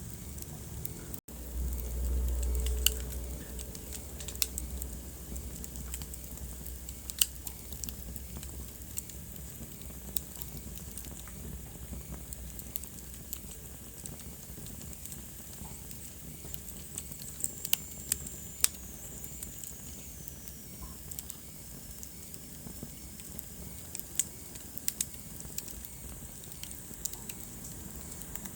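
Wood fire crackling in a fireplace: scattered sharp pops and snaps over a steady low hiss. The sound cuts out for an instant about a second in, then a low rumble of the flames runs for about two seconds.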